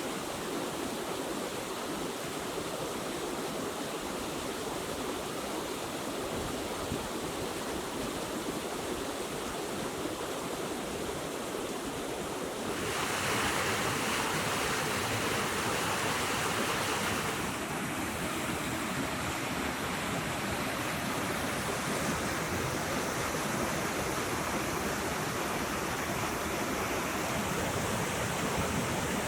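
Steady rushing of a forest stream's running water. It grows louder and brighter about 13 seconds in and eases again a few seconds later.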